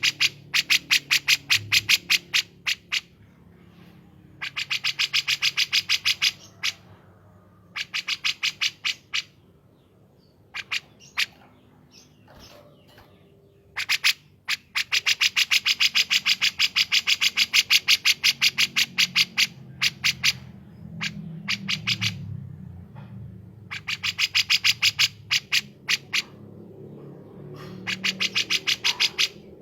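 Songbirds, the kapas tembak and cucak jenggot bulbuls of a masteran recording, singing in repeated bursts of rapid, evenly spaced sharp notes, about eight to ten a second. Each burst lasts from a second to about five seconds, with short pauses between.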